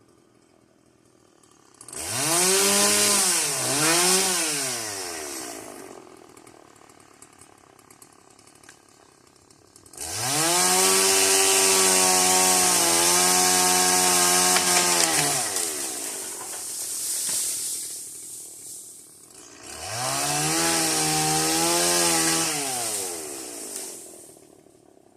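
Stihl chainsaw revving hard in three bursts with its engine dropping back low between them: two quick revs about two seconds in, a long high run of about six seconds from ten seconds in, and another rev near twenty seconds.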